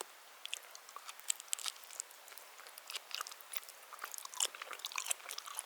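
A person chewing food close to the microphone: irregular small wet clicks and crunches.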